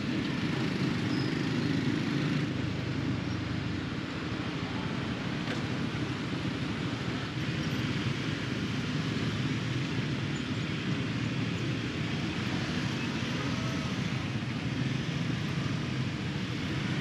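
Steady road noise from riding a motorbike in dense city traffic: engine running, wind rush and the traffic around it.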